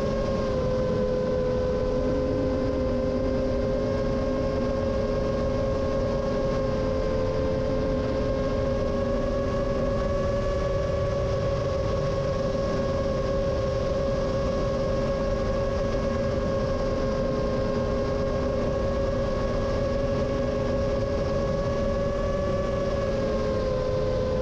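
Rajawali Fold 7 FPV quadcopter in flight: its motors whine steadily at several close pitches over a constant rush of wind. The pitch dips slightly about a second in and again near the end.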